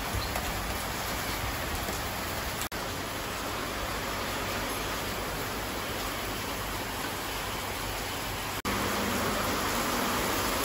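Steady rain, an even hiss with no distinct drops or rhythm, broken twice by brief gaps.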